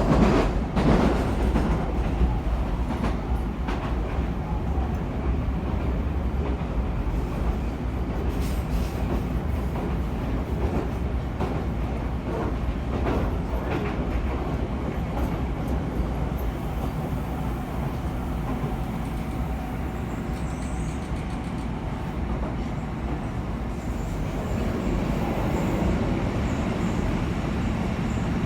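Yokohama Municipal Subway 4000 series train running between stations: a steady rumble of wheels and motors, with a few short clicks over the rail near the start and again a third and about halfway through.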